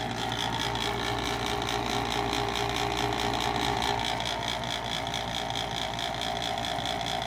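Exhaust fan motor of a high-efficiency gas furnace running with a steady whir and a high whine, a lot of noise for the motor. The noise is the sign of a worn exhaust fan motor, which typically goes at around the 10-year mark.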